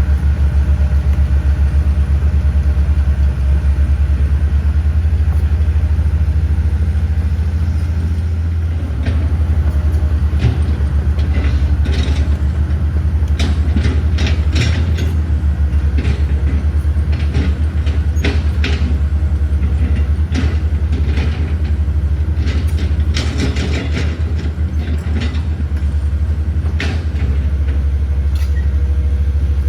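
Heavy diesel engine of a piece of earthmoving equipment running steadily under a deep, even drone. From about nine seconds in, irregular sharp clanks and knocks are heard over it.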